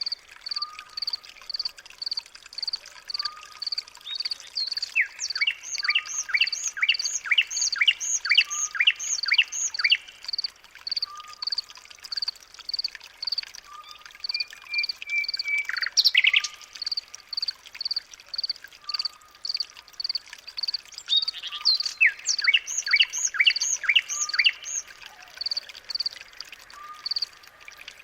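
Birds calling: a high chirp repeated about twice a second, a lower short call every couple of seconds, and twice a run of quick sweeping trills.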